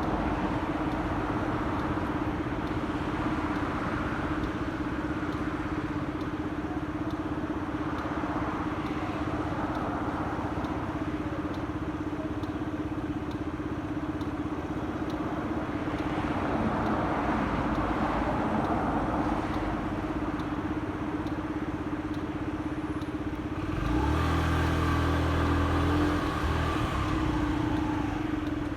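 Motorcycle engine running steadily under way, mixed with wind and road noise. Near the end a louder, deeper hum comes in for about two seconds.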